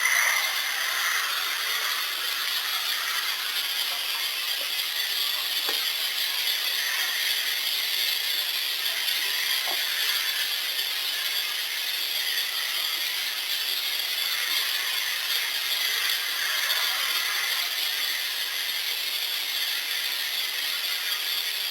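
Steady, dense rasping chorus of insects, with a couple of faint clicks about six and ten seconds in.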